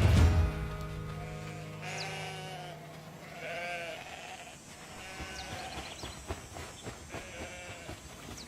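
Sheep bleating, a wavering call every second or two, with a few short, high, falling bird chirps between them.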